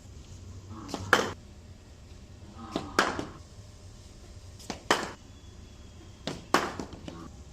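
BDM cricket bat hitting a cricket ball four times, about two seconds apart: each sharp, loud crack comes just after a lighter tap.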